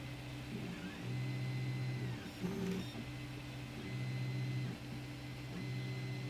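Zonestar P802M 3D printer printing: its stepper motors give off a steady whine that comes in stretches of about a second, changing pitch with each move of the print head and bed, over a constant hum.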